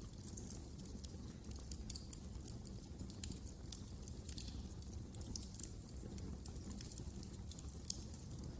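Wood fire crackling in a fireplace: a steady low rumble of the flames with frequent small, irregular pops and snaps.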